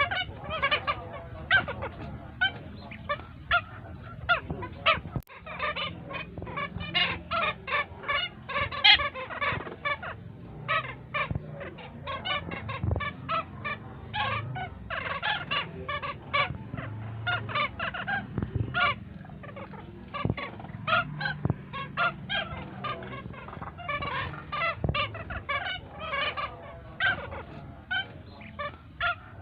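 A group of young long-legged wading-bird chicks calling continuously: a dense run of short, rapid, honking squawks with no pause.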